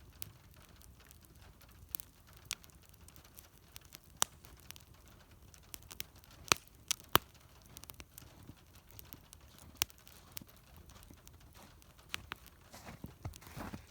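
Wood fire crackling, with sharp irregular pops over a low steady hiss; a louder rustle comes in near the end.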